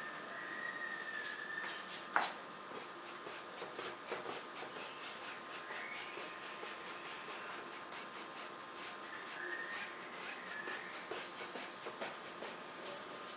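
Paintbrush strokes and dabs on the painting surface: a quick, irregular run of short brushy rubs, a few a second, with one sharper tap about two seconds in.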